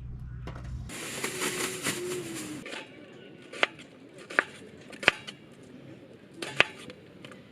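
Camp cooking utensils at work: a rushing hiss lasting under two seconds, then four sharp separate clacks at uneven intervals.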